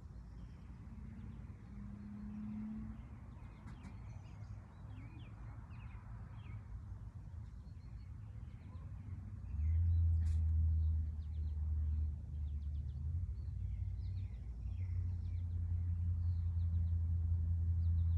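Small birds chirping in short, scattered calls over a steady low rumble, which swells sharply about halfway through and stays loud to the end.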